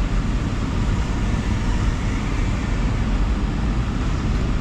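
Steady low rumble with a hiss above it, unbroken and even, with no distinct knocks or tones.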